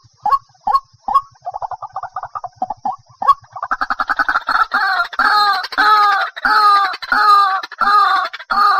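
White-breasted waterhen calling: short notes about two a second, then a fast chattering trill, then loud repeated croaking notes at a little under two a second.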